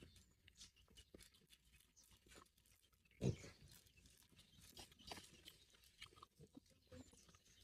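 Faint clicks of people biting and chewing watermelon slices, with one louder, brief sound about three seconds in.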